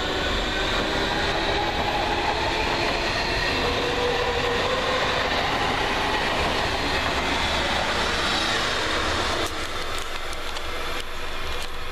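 Red DB electric multiple-unit train passing through the station at speed on the near track: steady rolling noise of wheels on rail, with faint whining tones that glide in pitch. About nine and a half seconds in, the sound drops a little and a few sharp clicks come through.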